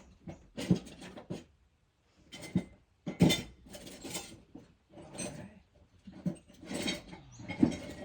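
Irregular metal clinks and clanks, a few a second with short pauses: tools and steel parts being handled and fitted.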